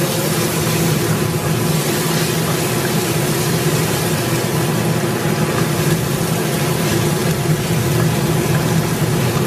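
Sliced garlic and ginger sizzling in hot oil in a wok while being stirred with a wooden spatula. A steady mechanical hum runs underneath.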